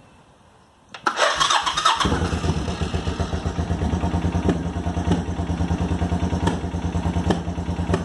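1986 Suzuki Intruder 700's V-twin engine turned over by the electric starter about a second in, catching within a second and settling into a steady idle. It starts right up now that the loose battery ground bolt has been tightened.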